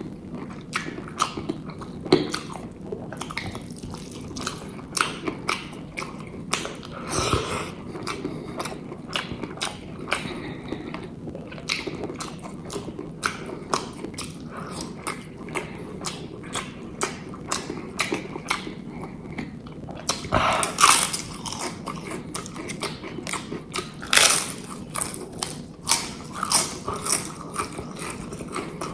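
Close-miked eating sounds: steady chewing of egg curry and rice, with many small wet mouth clicks and smacks. A few louder bursts come about 7, 21 and 24 seconds in.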